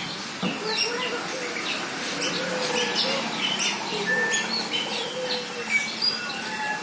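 A crowd of small birds chirping together, short high calls overlapping densely, with some lower wavering calls beneath them.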